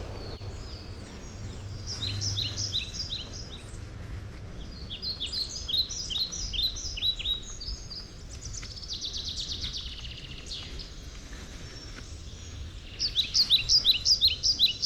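Songbirds calling in runs of short, high, down-slurred chirps, several bursts a few seconds apart, with a brief buzzy trill in between, over a steady low outdoor rumble.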